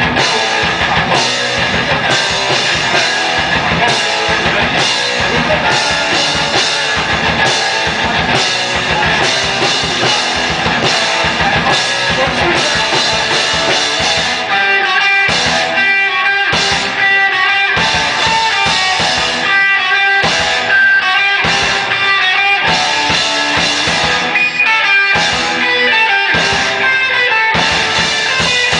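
Live metal band playing loud: electric guitars over a drum kit, with no bass guitar. About halfway through the playing turns choppy, with short stabbed chords and breaks between them.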